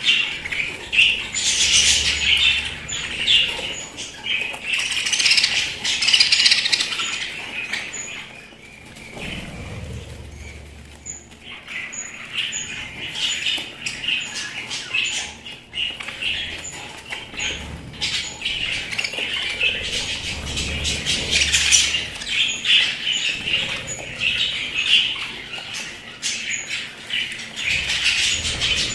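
Pet budgerigars chattering and chirping continuously in a busy, overlapping warble, with a short lull about a third of the way through.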